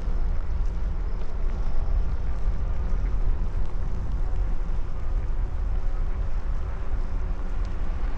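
Wind rumbling steadily on the microphone of a moving bicycle, with a faint hum like passing traffic underneath.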